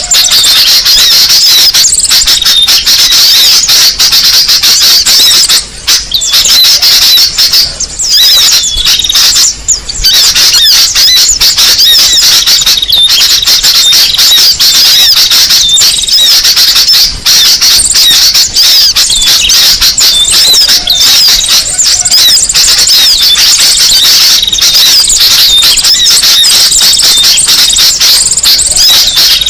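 Bird-lure recording of small songbirds twittering: a loud, dense, unbroken stream of rapid high squeaky chirps, with a few brief breaks in the first third.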